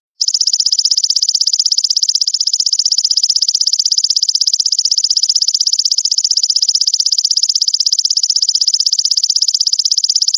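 Grasshopper stridulation: a continuous, fast, high-pitched pulsing buzz, played as a looped recording for training songbirds, with a brief dropout at the very start where the loop restarts.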